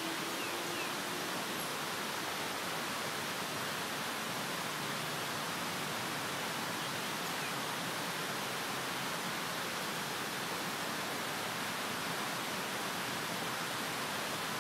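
Steady, even rushing hiss with no breaks or changes, the constant background noise of the waterside.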